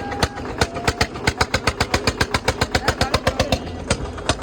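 Tractor diesel engine running with a rapid, sharp exhaust knock, about seven or eight beats a second.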